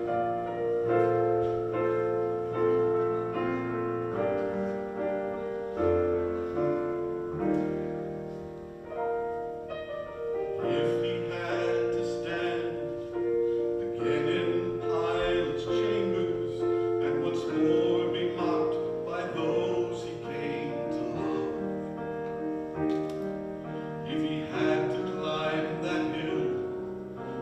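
Slow piano music with long held notes and chords, in the style of a hymn accompaniment.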